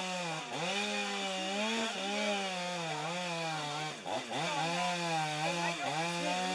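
Two-stroke chainsaw cutting wood, its engine note sagging under load and picking up again in stretches of a second or two, with short dips about half a second, two seconds and four seconds in.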